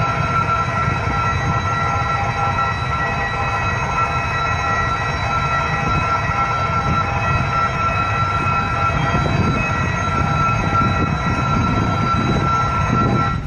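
Diesel train running at a steady pace: a low rumble with a constant high-pitched whine over it.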